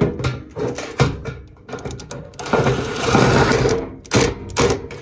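Sheet-metal knocking and rattling from a gas furnace's blower assembly being worked into the cabinet, with a dense scraping stretch from about two and a half seconds to nearly four seconds in.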